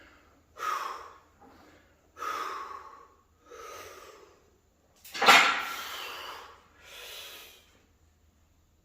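A man breathing hard and forcefully through a heavy set of barbell skull crushers: five loud, noisy breaths, about one every second and a half, one per rep. The fourth breath is the loudest and most strained.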